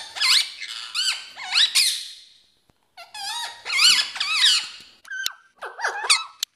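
Ringneck parrot calling in a run of high, squeaky, warbling notes that bend up and down. It pauses briefly about halfway, then goes on.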